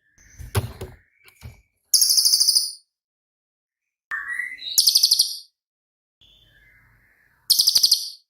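A cililin (racket-tailed treepie) calling: three loud, high, fast-pulsing rattling 'shots' about every two and a half to three seconds, with softer, lower notes between them, one of them rising.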